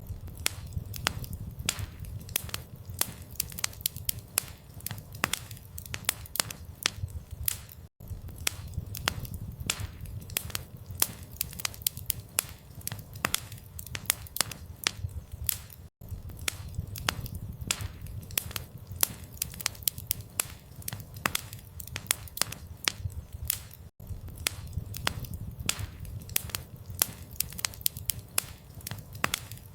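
Campfire crackling: dense, irregular sharp pops and snaps over a steady low rumble of burning wood. The sound drops out briefly every eight seconds, as a loop restarts.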